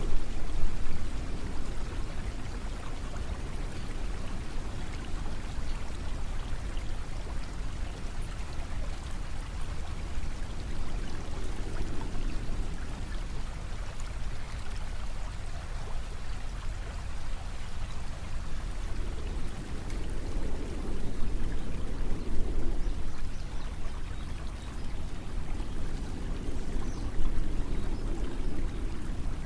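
Steady rushing of flowing water, with a deeper swell rising and easing every several seconds.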